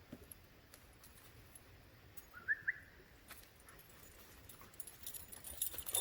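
Quiet outdoor ambience with two short rising squeaks about two and a half seconds in. From about five seconds in comes a run of light, quick metallic clinks and jingling.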